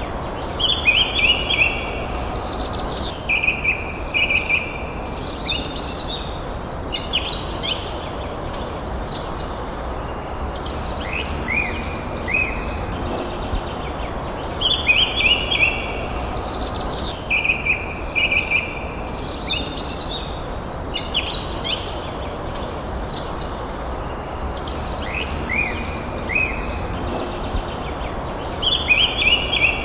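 Forest birds singing: repeated phrases of quick high notes and downward-sweeping whistles, several times over, above a steady low background rumble.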